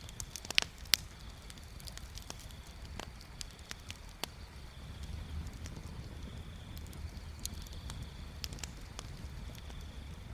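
Wood bonfire crackling, with irregular snaps and pops; two sharp pops about half a second and a second in. A low steady rumble runs underneath.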